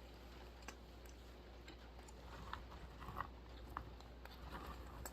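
Dry roasted almonds being chewed and crunched: faint, crisp clicks, with a cluster of louder crunches from about two to four and a half seconds in.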